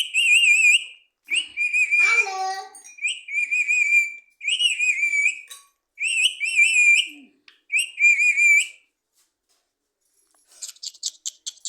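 Parrot whistling a warbling, trilled note in about six short phrases, one after another. Near the end it breaks into a fast run of clicks.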